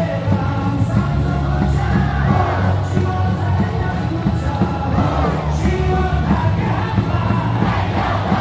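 Stadium crowd singing and chanting a cheer song along with loud music over the ballpark speakers.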